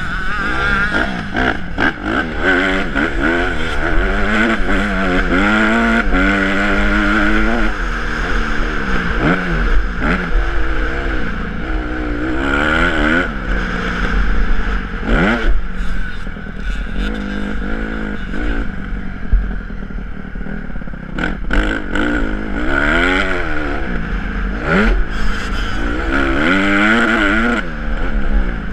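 Honda CRF150R's single-cylinder four-stroke engine revving up and dropping back over and over while the motocross bike is ridden, with scattered knocks and rattles.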